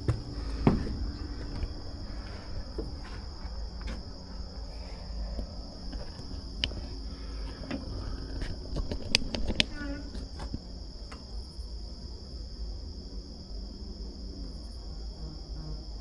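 Crickets chirping in a steady high trill throughout, with scattered footsteps and clicks along a trail in the first ten seconds or so.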